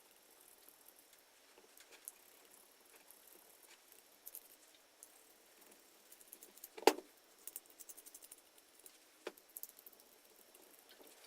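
Faint scratching and ticking of a scraper working paint softened with chemical stripper off the grinder's metal body, with one sharp knock about seven seconds in and a lighter knock about two seconds later.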